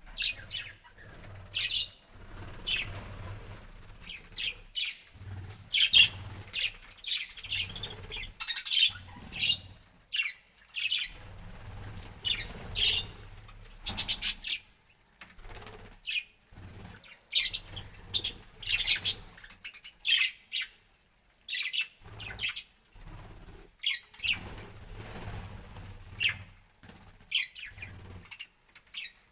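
Parrots calling in many short, sharp chirps and squawks, over and over, with bursts of wing flapping.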